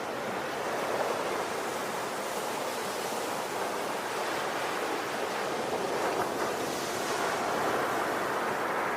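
Ocean waves on a shore: a steady wash of surf that rises and falls gently.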